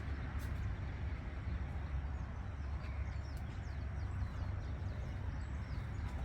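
Steady low rumble of outdoor background noise, with a few faint bird chirps around the middle.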